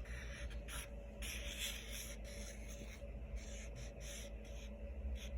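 Marker tip scratching across paper in a series of uneven strokes as a tree branch is coloured in.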